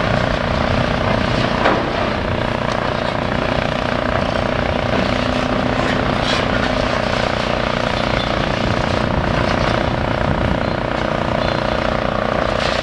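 Heavy demolition machinery running steadily: a continuous engine drone with a steady hum, and a single sharp knock a little under two seconds in.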